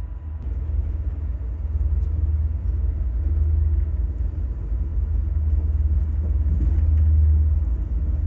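Steady low rumble of the Amtrak Coast Starlight passenger train in motion, swelling slightly toward the end.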